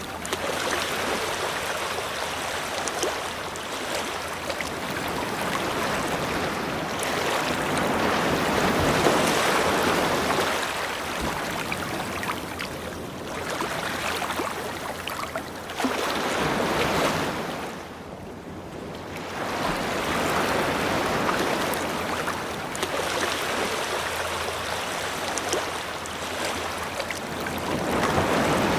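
Ocean waves washing onto a beach: a steady rush of surf that swells and ebbs every few seconds, with a brief lull about two-thirds of the way through.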